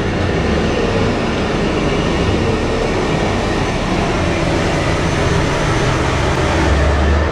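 Steady, loud low rumble of a large vehicle running, swelling slightly near the end.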